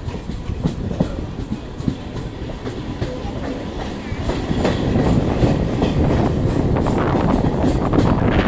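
Electric multiple-unit suburban train running, heard from inside the coach: a steady rumble of wheels on the rails with repeated clicks over rail joints, growing louder about halfway through.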